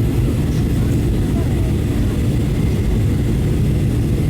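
Steady low rumble of a Boeing 737-800 heard from inside the passenger cabin: its CFM56 jet engines and airflow noise running evenly.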